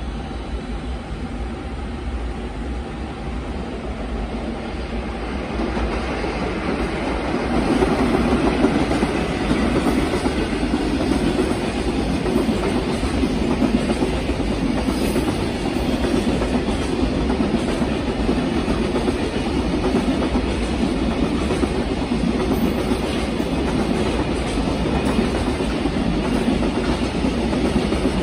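Freight train passing, its wagons' wheels rumbling and clattering over the rail joints; it grows louder over the first several seconds, then holds steady.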